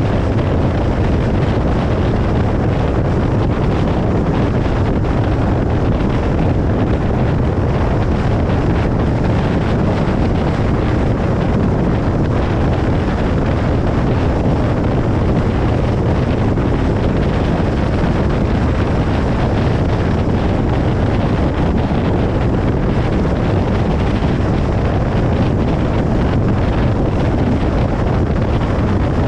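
Car moving at highway speed: steady road, tyre and wind noise with a low rumble, unchanging throughout.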